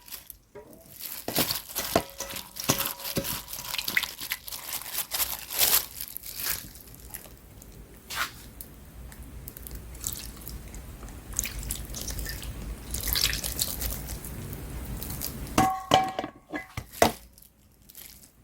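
Kitchen work with water: splashing and dripping, with many small clicks and knocks of utensils or containers. There are a few short ringing knocks near the end.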